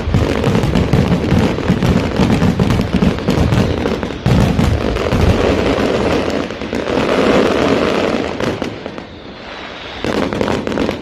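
Fireworks display going off in a dense, rapid barrage of bangs and crackles that thins out about nine seconds in, then one last short burst near the end.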